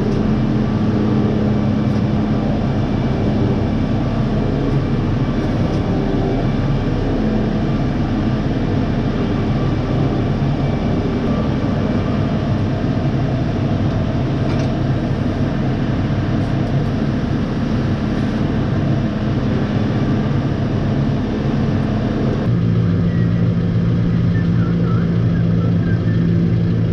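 Engine of yard machinery running steadily under way; about 22 seconds in its note shifts to a lower, steadier hum.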